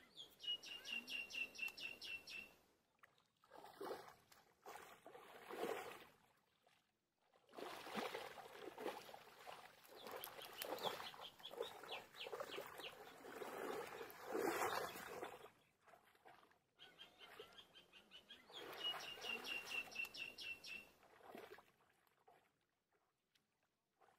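A bird calling in fast trills of sharp high notes, twice, near the start and again near the end, with louder stretches of noise in between.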